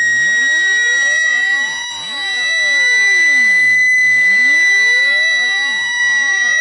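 Synthetic speaker-cleaning water-eject tone. A steady high-pitched tone with overtones is held under a web of tones that sweep down low and back up again, about every two seconds. It is a loud, buzzer-like test signal meant to shake water out of a phone speaker.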